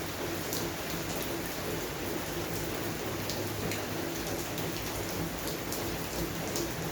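Steady rain falling in a garden, with scattered single drops landing close by as short, sharp ticks.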